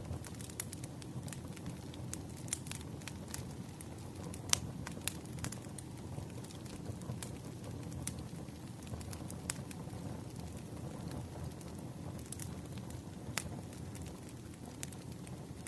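Wood fire crackling: a steady low rumble of burning logs with sharp pops at irregular intervals.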